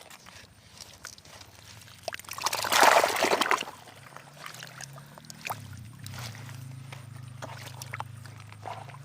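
Water sloshing and splashing, with a louder splashing burst lasting about a second, starting a little over two seconds in. A low steady hum runs underneath through the second half.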